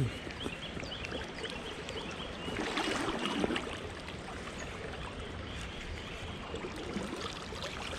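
Water trickling and lapping, with a louder stretch of splashing about three seconds in.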